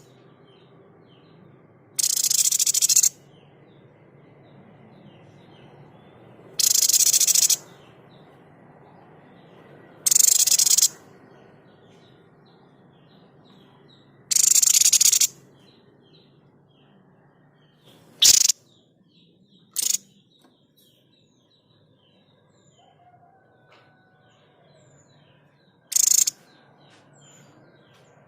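Harsh, noisy bursts of the "shot" call of the babbler that Indonesian bird-keepers call "sniper" (tepus dada putih), repeated about seven times: four calls of about a second each, then shorter, sharper ones. Faint twittering of small birds runs underneath.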